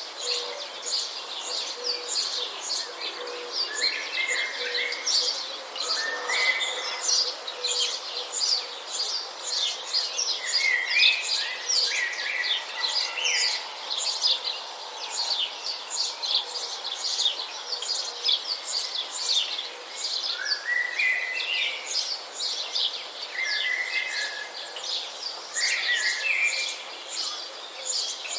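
A dense chorus of many birds chirping and singing: a continuous patter of short, high chirps, with an occasional lower rising whistled phrase every few seconds.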